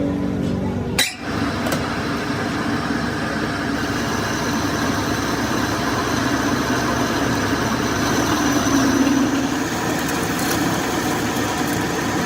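Metal lathe running steadily, with a sharp break about a second in.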